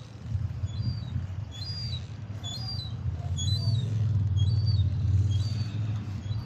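A small bird chirping over and over in quick two-note phrases, above a steady low rumble that grows louder about four seconds in and then eases off.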